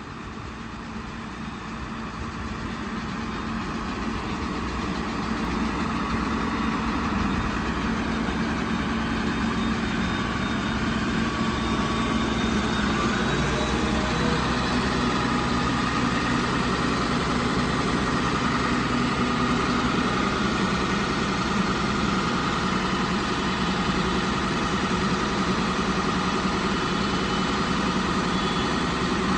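Heavy diesel engine of a Sinotruk HOWO dump truck idling steadily; it grows louder over the first few seconds, then holds an even hum.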